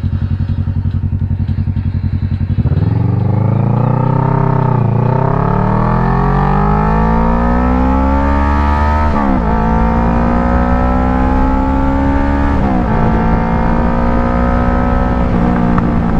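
Kawasaki Ninja 650 parallel-twin engine running low and steady, then accelerating from about two and a half seconds in. Its note rises and drops at each upshift, three in all, then settles into a steady cruise near the end.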